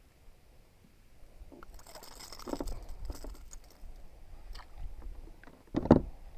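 Close handling noises: scattered clicks and crackly rustles, busiest about two seconds in, then one loud knock near the end.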